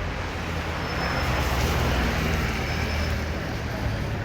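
A motor vehicle passing on a wet street: a low engine rumble with tyre hiss that swells to a peak about two seconds in, then eases.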